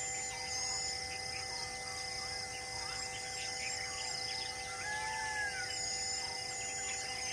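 Forest birds chirping and calling, many short quick notes with one longer arched call about five seconds in, over a steady droning hum of several held tones.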